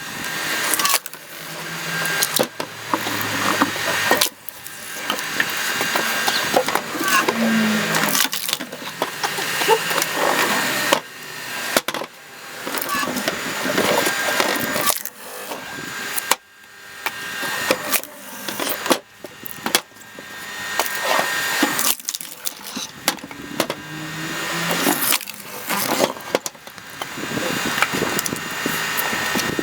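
Self-built screw-cone log splitter driving into firewood: the wood creaks and cracks louder and louder until it splits with a sharp crack, over and over, with the splitter's drive running as a steady tone underneath.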